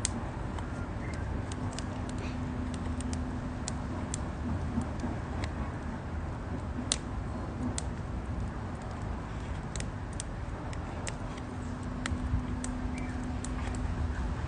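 Wood campfire crackling: irregular sharp pops and ticks over a steady low rumble.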